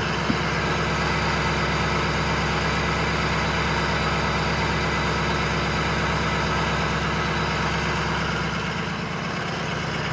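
Ford 6.0 L Power Stroke V8 turbo-diesel idling steadily a few minutes after a cold start, heard up close. There is one short click just after the start.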